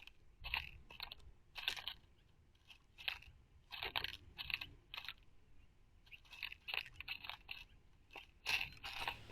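A dove pecking at black oil sunflower seeds on a bird feeder, picked up close by the feeder camera's microphone: irregular crunchy clicks, singly and in small clusters.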